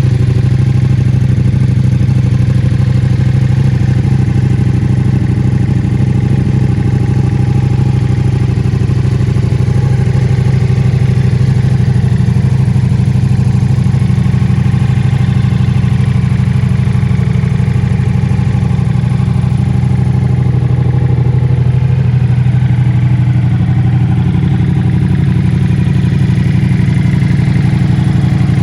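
Ducati Multistrada V4S's V4 engine idling steadily through a full Akrapovic exhaust system.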